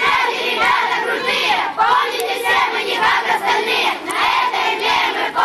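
A large group of children shouting and chanting together, in phrases of a second or two with brief breaks between them.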